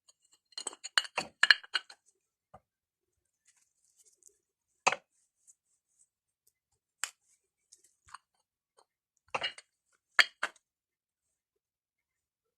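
Hard stones being handled, clicking and clinking. There is a quick run of clicks about a second in, then single knocks or pairs every couple of seconds.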